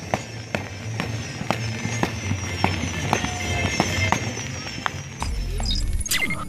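Fireworks going off in a run of sharp pops and crackles, with music playing at the same time; a deeper rumble comes in near the end.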